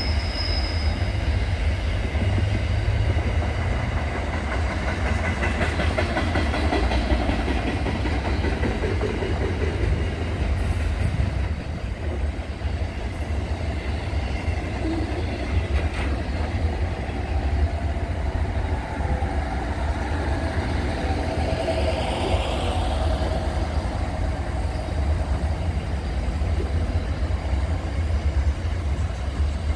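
Freight train of container wagons rolling past: a steady rumble of steel wheels on the rails with clickety-clack over the rail joints, and thin high wheel squeals in the first several seconds.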